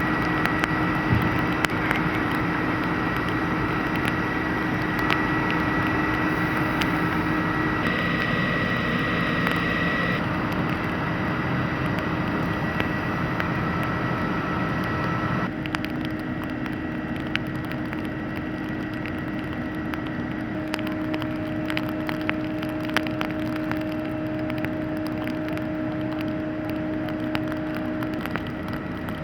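Fire engines running steadily at a fire scene, a constant engine and pump hum with a few steady tones and scattered faint crackles. The sound changes and drops slightly about halfway through.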